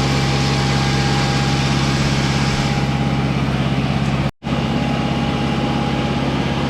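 Sawmill engine running steadily at a constant speed, with a high hiss over it that falls away about three seconds in. The sound cuts out completely for a split second just past four seconds.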